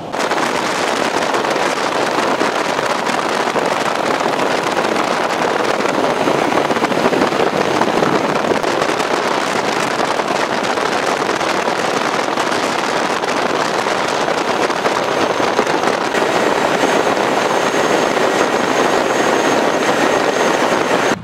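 Steady rush of wind and road noise from a motorcycle riding at highway speed, with a faint thin high whine.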